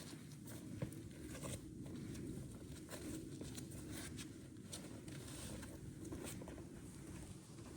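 Footsteps on a hiking trail with clothing rustling, irregular soft steps and rustles over a low steady rumble.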